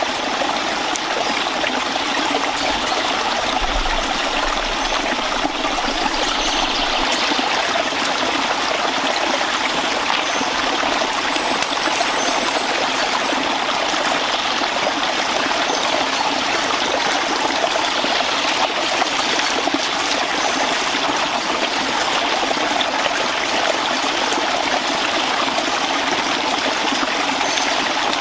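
Stream water running steadily, an even rushing and trickling.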